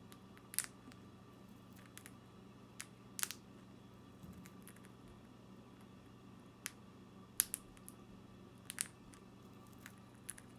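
A conure cracking millet seeds in its beak: about seven sharp little cracks at irregular gaps, over a faint steady hum.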